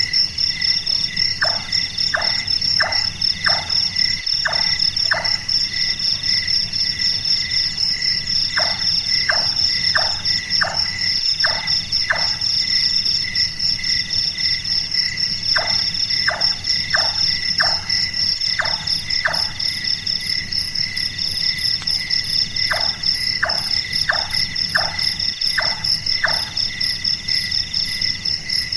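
Large-tailed nightjar calling: four runs of six or seven short knocking notes, about one and a half a second, sounding like someone tapping at carpentry. Crickets and other insects chirr steadily underneath.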